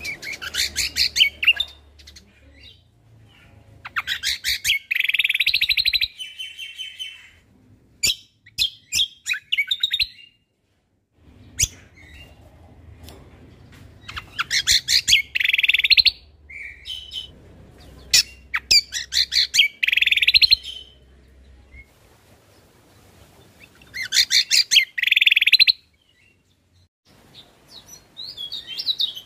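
Cucak kombo (kecial kombok) songbird singing in repeated bursts of rapid, chattering trills, a burst every few seconds with short pauses between, in the loud 'tembakan' style of a competition bird.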